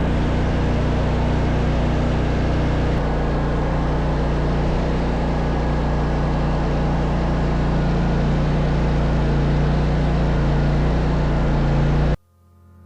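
Engine of snow-removal equipment running steadily at an even speed, with a strong low hum, cutting off abruptly near the end.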